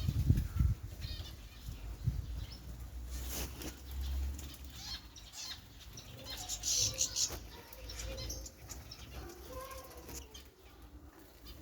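Small pet birds bathing, fluttering their wings in the water, loudest in the first second, with a few short high chirps around the middle.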